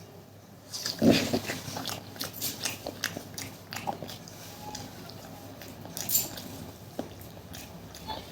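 Close-miked chewing and biting of food: irregular crunchy bites and wet mouth clicks, the loudest about a second in.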